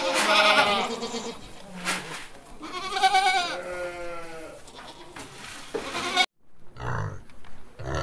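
Sheep bleating: two long wavering bleats, one at the start and one about three seconds in, with a short bleat between them. Shortly after six seconds the sound cuts off abruptly, and a few short pig grunts follow.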